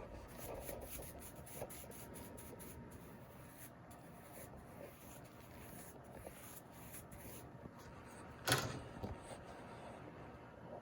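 Carving knife cutting and scraping wood in short, quiet strokes, with one sharper knock about eight and a half seconds in.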